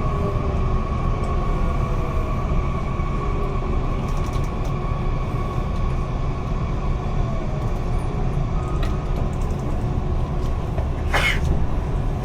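Electric commuter train's running rumble, heard from inside the carriage as it slows into a station, with the motor whine falling slowly in pitch. A brief hiss comes near the end.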